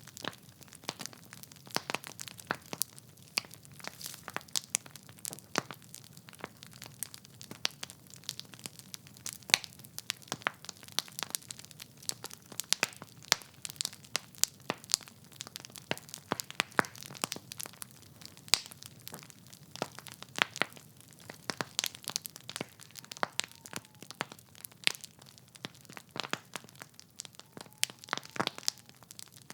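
Wood fire burning in a fireplace: logs crackling and popping with frequent sharp irregular snaps over a soft low hiss of flame.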